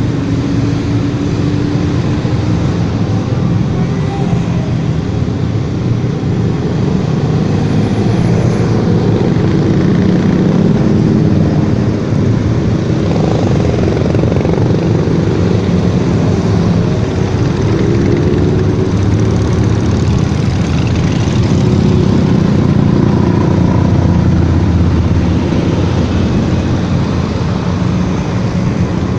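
Motorcycle engines running steadily on the road, swelling slightly a couple of times.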